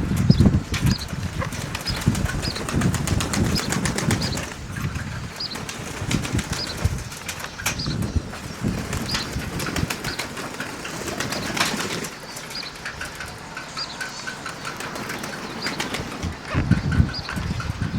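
Strong gusty wind, 11 to 13 metres a second, rumbling and buffeting on the microphone in uneven surges, with faint short high chirps scattered through and a brief run of evenly spaced high notes past the middle.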